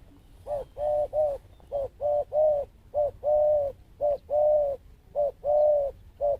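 Dove cooing: a short coo followed by a longer, drawn-out one, the pair repeated about once a second.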